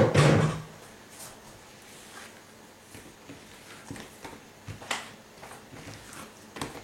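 Kitchen handling noises: a loud thump right at the start with a brief low ring, then scattered light knocks and clicks, loudest about five seconds in.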